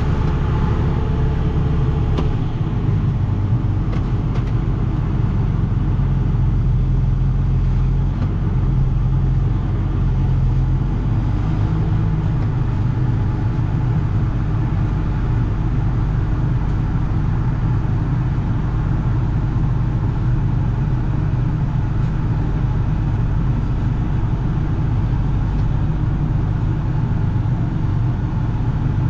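Large tractor diesel engine running steadily, with a step change in its low note about two seconds in.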